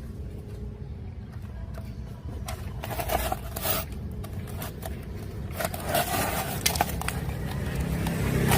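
Handling noises from repair work: irregular scraping and a few sharp clicks over a steady low hum.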